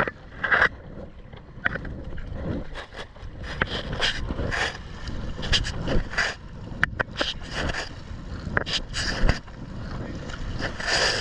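Water splashing and sloshing around a sea kayak under way, in irregular bursts over a steady low rumble of wind on the microphone.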